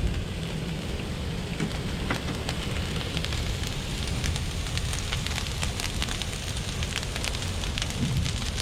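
Large brush pile fire burning hard, fuelled with diesel and gasoline: a steady rush over a low rumble, with many sharp crackles and pops.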